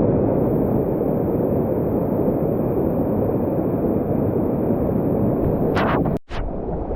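Rushing whitewater of a creek rapid, a dense low roar heavy in the bass, cutting out for a moment near the end.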